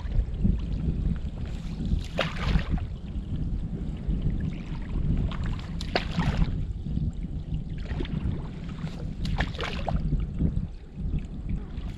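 Water sloshing and splashing at a blocked PVC drain pipe in a beaver dam, with a few louder splashes over a steady low rumble.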